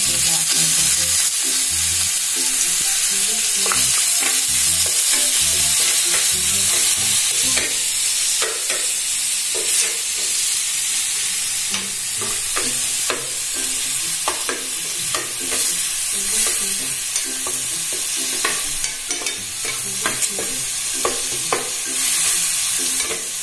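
Crushed ginger and garlic sizzling as it fries in hot sesame oil with mustard seeds, urad dal and curry leaves. The sizzle rises sharply as the ginger-garlic hits the oil. A metal ladle stirs throughout, its scrapes and taps on the pan heard as frequent short clicks.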